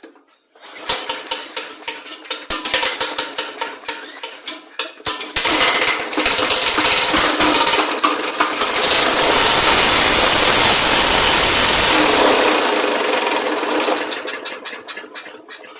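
Victa lawn mower's 163cc Briggs & Stratton four-stroke engine being pull-started: a fast run of pops as it is cranked, then it catches about five seconds in and runs loud for several seconds before it is shut off and winds down near the end. It runs vibrating really bad with the blades hitting underneath, which the mechanic takes as a sign that the blade carrier or boss is out of balance, or possibly a bent crankshaft.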